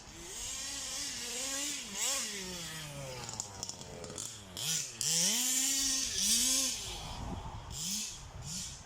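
Zenoah G320 two-stroke engine of a Rovan Baja 1/5-scale RC car, fitted with a VRC big-bore exhaust, revving up and down several times as the car is driven. It is loudest at full throttle about five to six seconds in.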